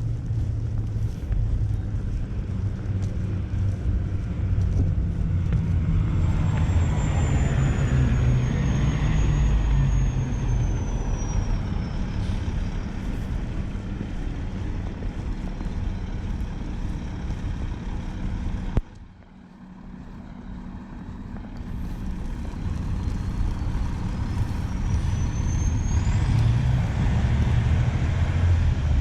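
City street traffic: the low rumble of heavy vehicles passing, with a thin high-pitched whine that glides down and later glides up again. The sound drops away suddenly about two-thirds of the way in and builds back up over a few seconds.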